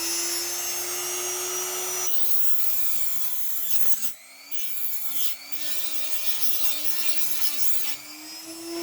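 Small high-speed rotary tool grinding off the end of the metal rivet that holds an old coupling on a model railway wagon; its motor pitch sags when the bit bites into the rivet, deepest about four seconds in, and rises again near the end.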